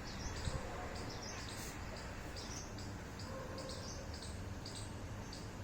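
Small birds chirping, many short calls repeated close together, over a steady low background hum.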